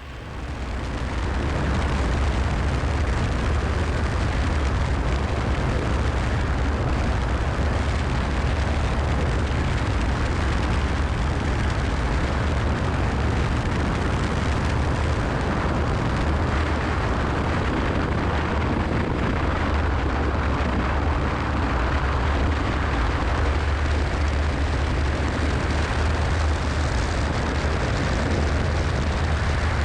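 Cessna 172SP's four-cylinder Lycoming engine and propeller running loud and steady with a deep rumble, after surging up over the first second or two: full power applied for a go-around after a bounced landing.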